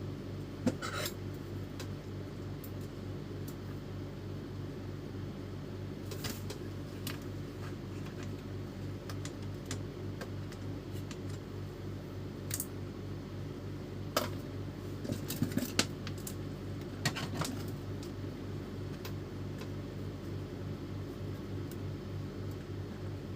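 Steady low hum with scattered light clicks and metallic clinks of small parts being handled, most of them clustered a little past the middle.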